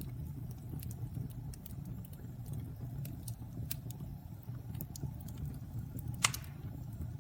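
Wood fire burning in a fireplace: a steady low rumble of flames with scattered small crackles, and one sharp, louder pop a little after six seconds in.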